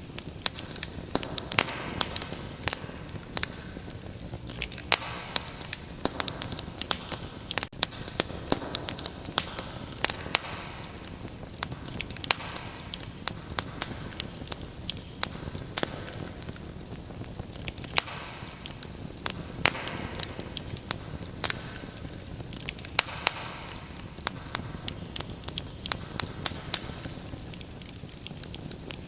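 Fireplace fire crackling, with frequent sharp, irregular pops over a soft hiss that swells and fades every few seconds.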